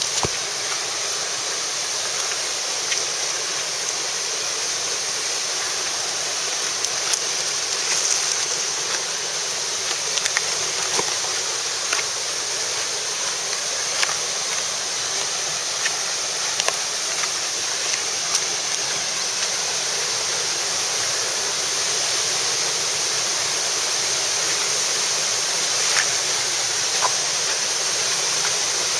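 Waterfall: a steady rush of falling water, with a few short sharp clicks scattered through it.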